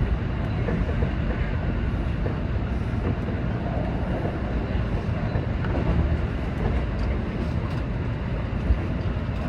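Seibu 20000 series electric train running steadily between stations, heard from inside the leading car as a continuous low rumble of wheels on rails and running gear.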